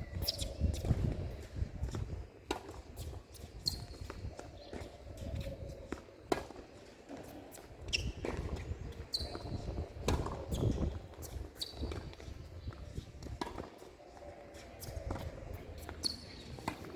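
Tennis being played: sharp thwacks of ball on racket and court at irregular intervals, with several brief high squeaks, over a gusty low rumble on the microphone.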